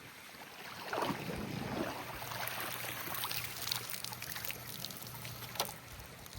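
Pool water sloshing and trickling as the manual pool vacuum and its pole are worked and lifted out of the water, with one sharp knock near the end.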